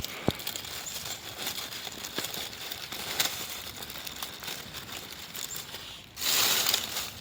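Crinkling rustles and small light clicks of handling, with a louder burst of rustling noise about six seconds in.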